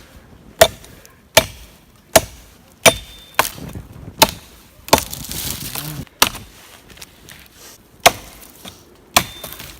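800-gram Falco Standart axe chopping knots and small branches off wood: about ten sharp blows, spaced irregularly roughly a second apart.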